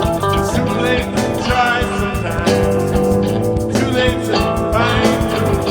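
Guitar-led band music from an improvised jam, with bending, wavering lead notes over a steady rhythmic backing.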